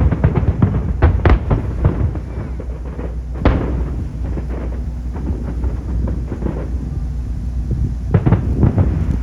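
Aerial fireworks shells bursting and crackling: a quick run of bursts, one big boom about three and a half seconds in, a lull with low rumble, then another cluster of bursts near the end.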